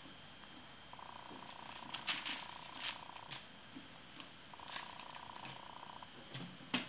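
A Bengal kitten purring in two long stretches, with sharp clicks and scratches scattered through, the loudest just before the end.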